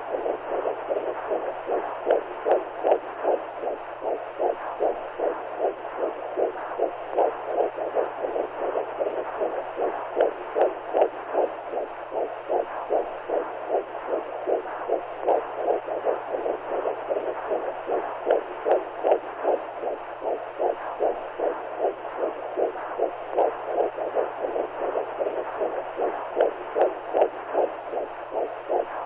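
Womb sound for soothing a newborn: a steady whooshing noise pulsing in an even rhythm about two to three times a second, like a mother's heartbeat and blood flow heard from inside the belly, over a steady low hum.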